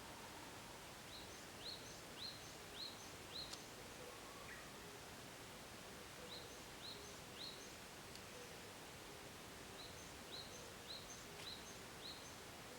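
A small songbird singing three short phrases, each a run of four or five high, upswept notes about half a second apart, over a faint steady outdoor hiss.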